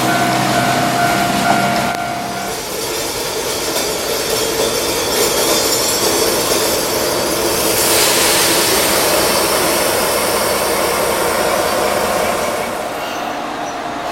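KiHa 37 diesel railcar running along the track. A steady engine tone drops away about two seconds in, leaving the rolling noise of wheels on rails, which grows louder about eight seconds in.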